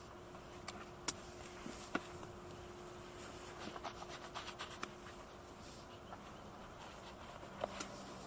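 Scattered light clicks and ticks with a short stretch of rustling near the middle, over a faint steady hum.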